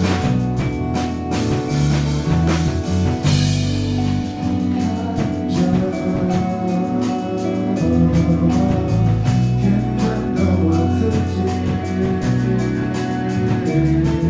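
Rock band playing live: guitars and bass over a drum kit keeping a steady beat, with a cymbal crash about three and a half seconds in.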